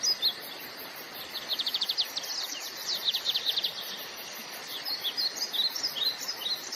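Birds singing and chirping, with two rapid trills of quick repeated notes in the first half and scattered chirps later, over a steady background hiss.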